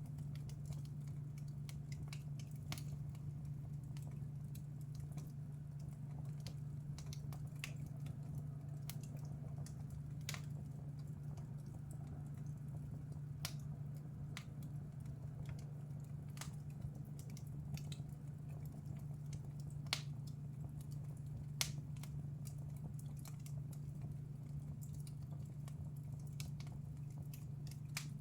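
Wood fire in a fireplace crackling, with irregular sharp pops and snaps over a steady low hum; two pops past the middle stand out louder.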